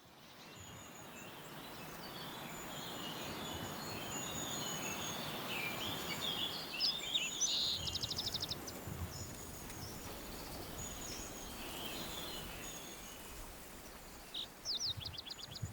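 Songbirds singing over a steady rush of river water, with a fast trill of repeated notes about eight seconds in and again near the end.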